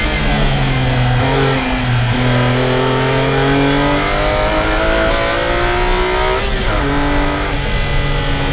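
BMW E46 M3's S54 inline-six engine heard from inside the caged cabin, running hard. Its note breaks up about one to two seconds in as the car brakes and shifts down. It then rises steadily in pitch as the car pulls through a gear, and drops sharply at an upshift about six and a half seconds in.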